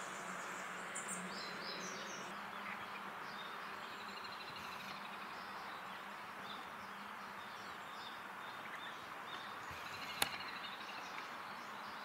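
Outdoor ambience of scattered small bird chirps and short calls over a steady background hiss, with a single sharp click about ten seconds in.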